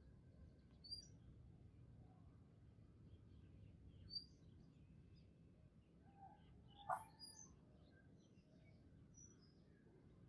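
Faint birds chirping over a low steady background rumble, with a few sharper chirps about a second in, about four seconds in, and loudest about seven seconds in.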